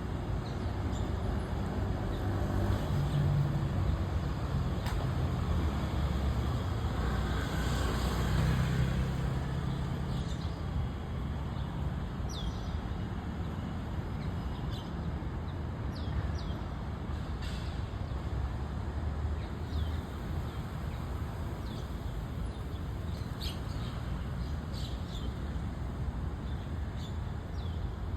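Steady low traffic rumble with a vehicle passing about eight seconds in, and white-cheeked starlings giving short, high, falling chirps every few seconds.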